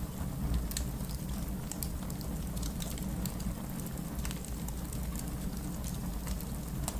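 Wood fire burning in a fireplace: a steady low rumble from the flames, with sharp crackles and pops at irregular moments, about one every second.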